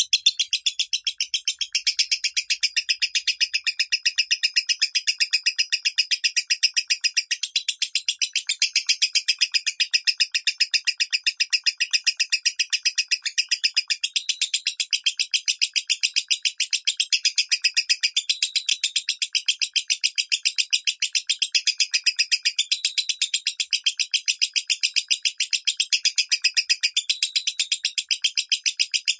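Lovebird singing in the 'minor' voice, a long unbroken run of rapid, shrill chirps repeated several times a second at an even pace and level.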